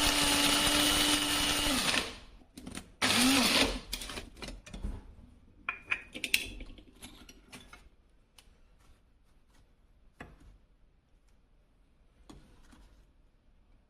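Electric blade coffee grinder motor running with a steady hum, cutting off about two seconds in and winding down, then a brief second pulse. After that come scattered clicks and knocks of the grinder being handled, fading to quiet.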